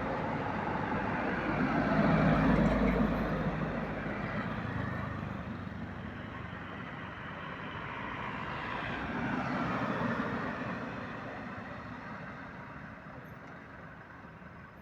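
Heavy road vehicles, buses and trucks, going past with their engines running: one loud pass about two seconds in, another swell near ten seconds, then the sound fades away.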